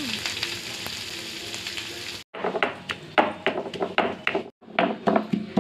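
Chopped shallots sizzling in hot oil in a pan. After about two seconds the sizzle is replaced by an irregular run of short clicks and taps, several a second.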